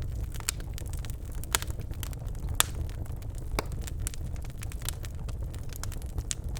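Birchwood fire burning in a fireplace: a steady low rumble of flame with irregular sharp crackles and pops from the burning logs, the loudest pop about two and a half seconds in.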